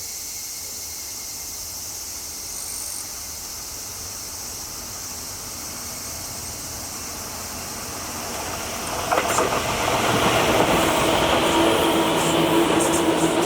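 Insects trilling steadily, then a Tobu 10030-series electric train coming up fast and growing loud about two-thirds of the way in, its wheels and motors running along the rails with a steady hum underneath.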